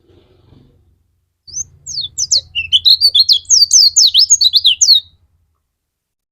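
Pleci (white-eye) singing in full song: a fast, unbroken run of high, sharply sliding notes that starts about one and a half seconds in and stops about a second before the end.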